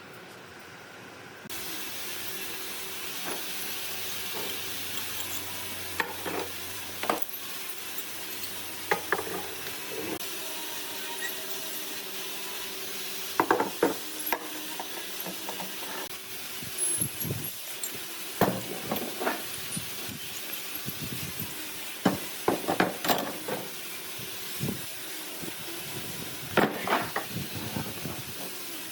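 Wooden knocks and taps at irregular intervals over a steady hiss, the sound of wood being handled and worked by hand.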